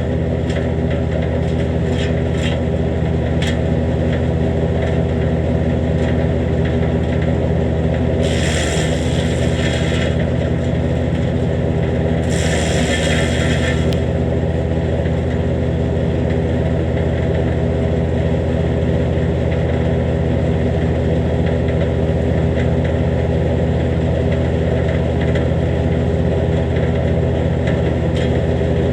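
Jansen GTS-1500 wood chipper running steadily under its engine, with fresh blades and a newly adjusted bed knife. Material is fed through and chipped in two loud bursts, about eight and twelve seconds in, with scattered clicks in the first few seconds.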